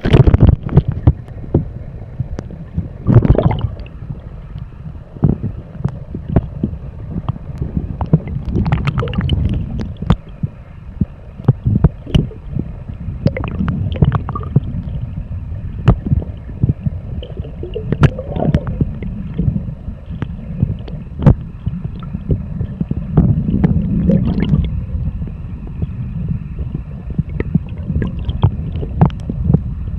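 Kayak paddling heard from a small camera on the boat: water sloshing and gurgling against the hull under a steady low rumble, with frequent small knocks and a few louder splashes.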